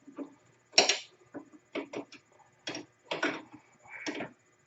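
Metal wrench clinking against a bolt and the metal suspension parts while a bolt is being tightened: a handful of short, irregular clicks and knocks, the sharpest about a second in.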